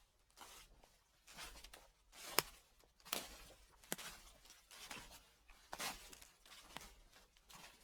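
Footsteps crunching through dry fallen leaves at a slow, steady pace. Each step is a crackling rustle with sharp little snaps.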